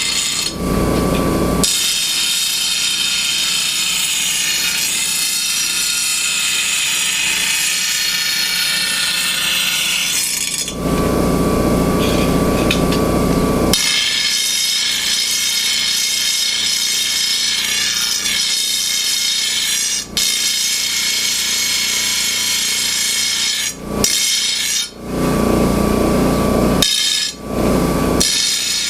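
Electric grinder sharpening a dull steel lawn mower blade: long stretches of abrasive grinding on the blade edge, broken a few times by short spells where the grinder runs free with a steady whine.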